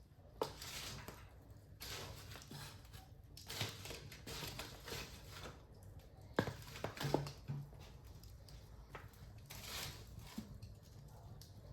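Wood fire in a fireplace crackling, with sharp pops about half a second in and several more between six and eight seconds in, over recurring soft bursts of hiss.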